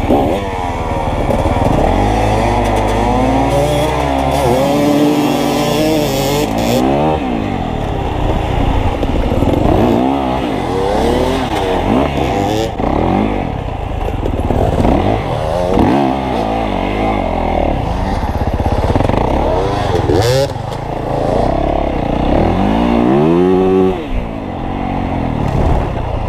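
Two dirt bike engines racing together, revving up and dropping back over and over through the turns. A rushing hiss joins them for the first several seconds.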